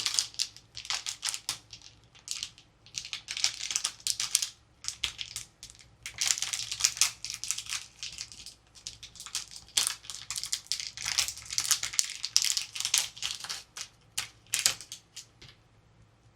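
Plastic packaging crinkling and crackling as it is handled and crushed during an unboxing, in irregular bursts with short pauses that stop shortly before the end.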